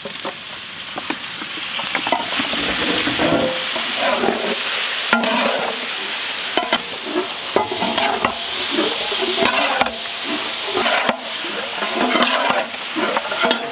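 A large pot of coconut oil and ground ginger-chilli paste sizzling as raw chicken pieces go in, with a long metal ladle stirring the chicken and scraping against the pot. There are repeated knocks, and squeaky scrapes in the second half.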